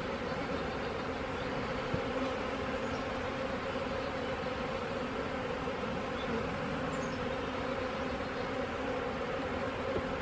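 Steady hum of a mass of honey bees buzzing around an opened nuc hive.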